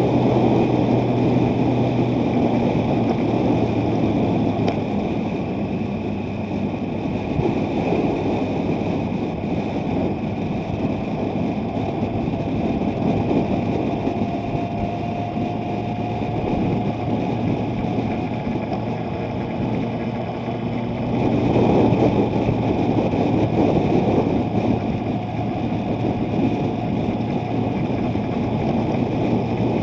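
A vehicle driving in strong wind: steady engine and road noise with heavy wind rushing and buffeting, louder for a few seconds about two-thirds of the way through.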